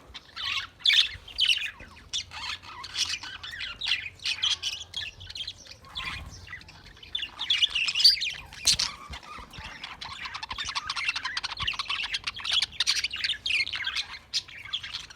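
Budgerigars chirping and warbling, with squawks mixed in: continuous chatter from several birds.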